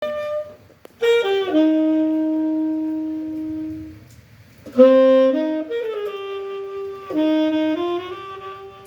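Solo saxophone playing a slow, jazzy melody. Phrases start about a second in, again near the middle and again near the end, each stepping down through a few notes and settling on a long held note.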